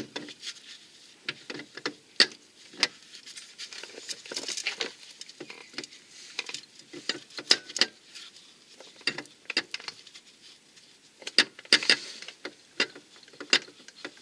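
Irregular metal clicks and clinks of a car's starter motor and hand tools being handled as the starter is fitted back against the gearbox, with a denser run of clicks about two-thirds of the way through.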